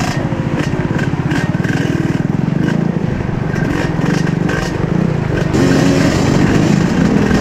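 Trail motorcycle engine running under throttle while riding, getting louder about five and a half seconds in, with scattered clicks and knocks over it.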